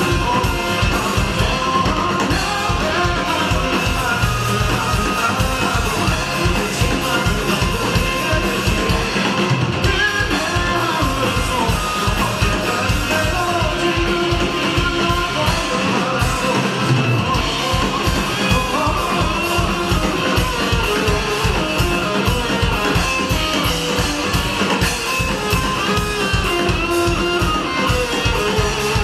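Live rock band playing a song with singing over electric guitars, bass and drums on a steady beat, with the drums briefly dropping out twice.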